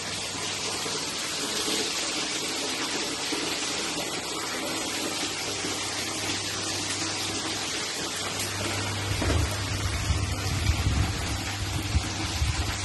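Chicken pieces deep-frying in hot oil in a wok, a steady hissing sizzle like rain. Low bumps and knocks come in over the last few seconds.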